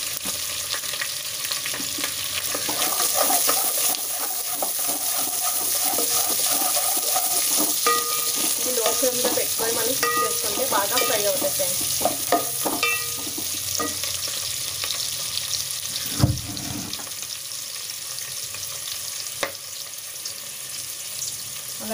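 Chopped vegetables frying in hot oil and ghee in a stainless steel pot, with a steady sizzle, while a wooden spatula stirs and scrapes them against the pot. There is one dull knock about three-quarters of the way through.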